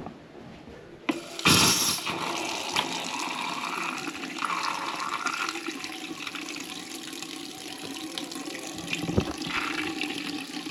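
Water running from a bathroom fixture. It comes on with a sudden gush about a second and a half in, then runs steadily as the flow is checked after a leaking pipe joint was repaired.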